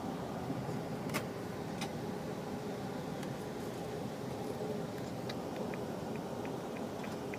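Steady road noise of a moving car with a low, even hum. A couple of sharp clicks come about a second in, and near the end there is a run of light ticks at about three a second.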